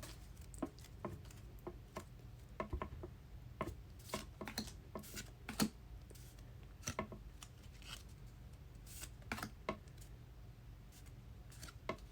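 Trading cards being flipped through one by one: faint, irregular short clicks and flicks as each card is slid off the stack, over a low steady hum.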